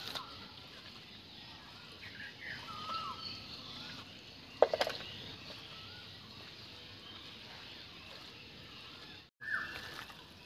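Outdoor ambience with a bird giving a short whistled call that falls in pitch, a few times. A single sharp knock about halfway through is the loudest sound.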